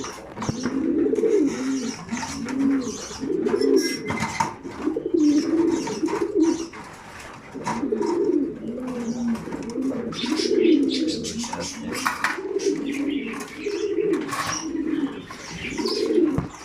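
Several racing pigeons cooing continuously, their low rolling coos overlapping one after another, with scattered light clicks and rustles.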